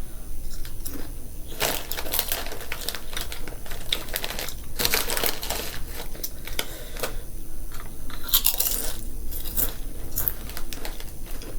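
Potato chips being bitten and chewed close to the microphone, a run of irregular crisp crunches coming in bursts.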